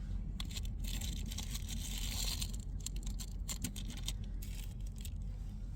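Rustling and crinkling of bedding, covers or gear being handled in a car's cramped sleeping area, with scattered light clicks and scrapes, over a low steady hum.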